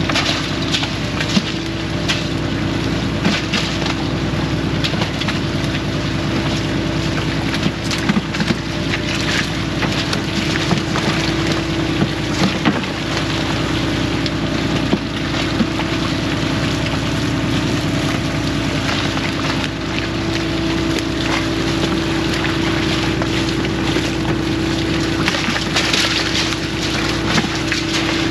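Fishing boat engine running steadily, with wind buffeting the microphone and scattered knocks on deck.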